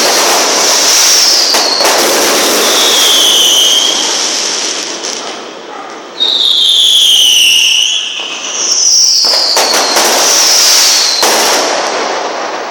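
Fireworks going off: several whistles that each fall in pitch over about a second, over a steady hiss, with sharp crackles and bangs. A loud whistle starts suddenly about six seconds in.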